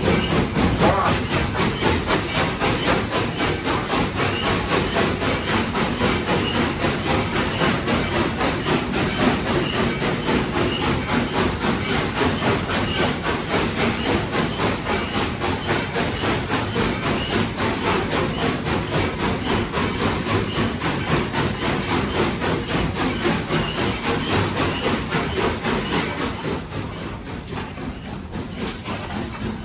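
Nevada Northern No. 81, a 2-8-0 steam locomotive, working hard up a grade, heard from inside its cab: rapid, steady exhaust chuffs over a constant hiss of steam. The level falls off a little near the end.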